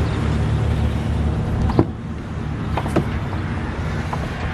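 Chevrolet Silverado 3500 HD pickup's engine idling with a steady low rumble, with a few sharp clicks and knocks about two, three and four seconds in.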